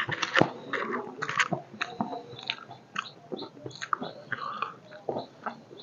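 Close-miked mouth sounds of a person chewing a mouthful of rice and curry, with irregular wet smacks and clicks.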